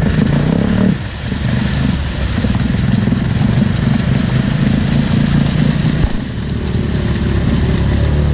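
Off-road ATV or side-by-side engine revving hard and steadily under load, with a brief dip about a second in, as the machine struggles for traction on the climb.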